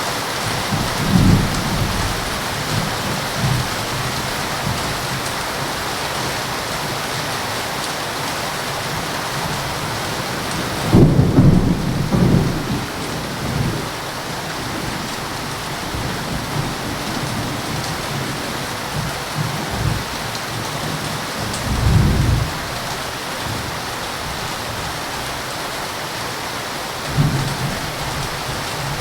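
Heavy rain falling steadily, with several low rolls of thunder; the loudest comes about eleven seconds in, and shorter rumbles come near the start, past the middle and near the end.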